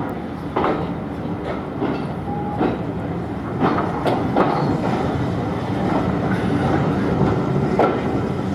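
Train running along the track: a steady rumble with irregular sharp clicks of the wheels over rail joints.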